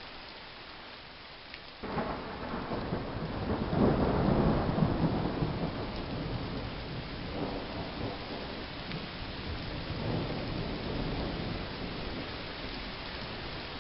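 Rain and road spray drumming on a car's windscreen and body, with tyres rushing on a wet motorway. The noise jumps up suddenly about two seconds in, is loudest a couple of seconds later, then settles to a steady rush.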